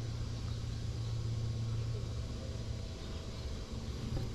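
A steady low mechanical hum that dips slightly about three seconds in.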